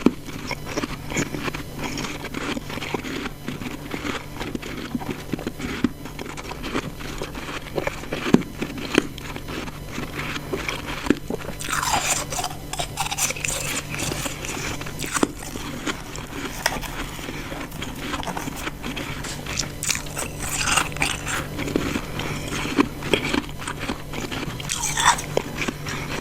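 Ice chunks being bitten and chewed close to the microphone: a dense run of crackly crunches, with louder bites every few seconds.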